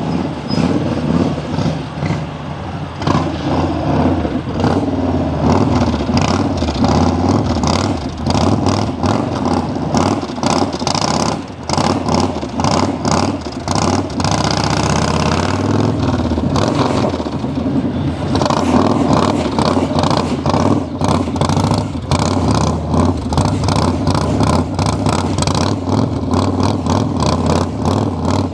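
Yamaha Star XV1900 motorcycle's air-cooled V-twin engine running and being revved up and down as the bike rides slow U-turns with clutch pulls.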